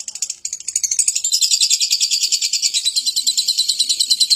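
Lovebird singing: a fast, continuous high-pitched chattering trill, louder from about a second in.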